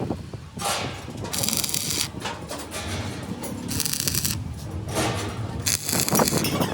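Sheet-metal fabrication work: repeated short bursts of hiss, each about half a second long, among a clatter of sharp metallic knocks.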